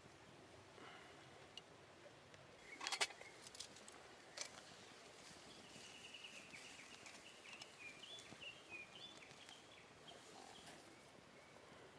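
Faint outdoor ambience: a few sharp light clicks and knocks about three seconds in and again a little later, then a faint bird chirping on and off for several seconds in the second half.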